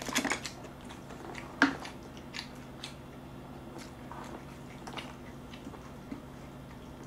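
A person eating braised monkfish and seafood close to the microphone: chewing and biting, with scattered short clicks of chopsticks and spoon on the dishes. The loudest sounds come in the first half-second and at about a second and a half in, then only fainter ticks.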